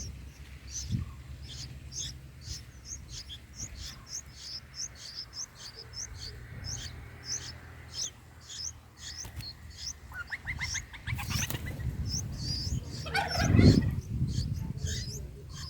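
Bulbul nestlings calling from the nest in short high chirps, about three a second. A quick rattling run of ticks comes about two-thirds through, and a loud rustling burst near the end.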